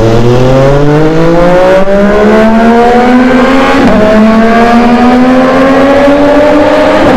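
MV Agusta Stradale 800's three-cylinder engine accelerating hard, its pitch climbing through one gear, dropping briefly at an upshift about four seconds in, then climbing again in the next gear.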